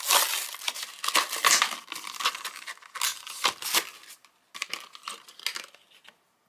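A die-cast toy's blister card packaging being torn open by hand: crinkling plastic and tearing card. It is dense and busy for the first four seconds, then comes in a few sparser rustles.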